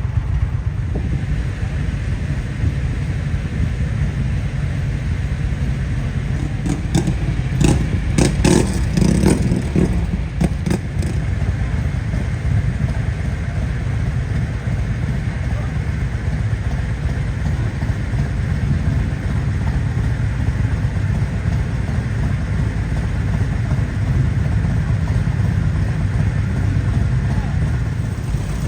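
Motorcycle engine running with a steady low rumble, with a short run of clicks and knocks about seven to eleven seconds in.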